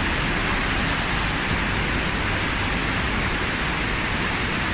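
Steady rush of water flowing through a concrete underground tunnel.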